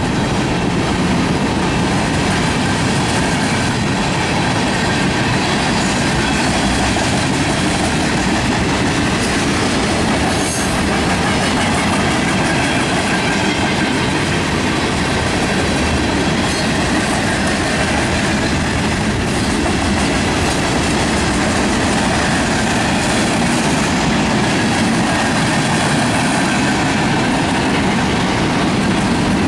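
Freight cars of a BNSF mixed freight train rolling past: steady, loud noise of steel wheels running on the rails.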